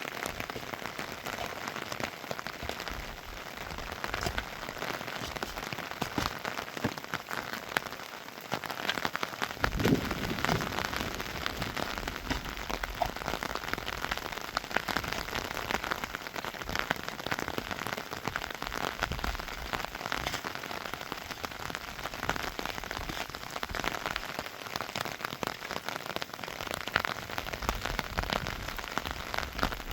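Rain falling steadily, a dense patter of drops striking surfaces, with a brief low thump about ten seconds in.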